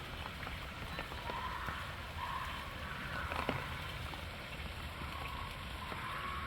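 A flock of flamingos giving short, faint honking calls over steady wind and water noise.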